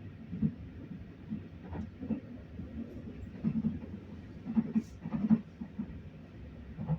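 Railway carriage running: a low, steady rumble with irregular knocks and rattles, loudest about two thirds of the way in.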